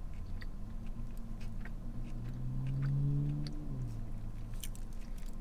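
Close-up chewing of a mouthful of cheesesteak sub on soft bread, with small wet mouth clicks throughout. About two seconds in comes a closed-mouth "mmm" hum of enjoyment, the loudest sound here, which rises slightly and stops near four seconds.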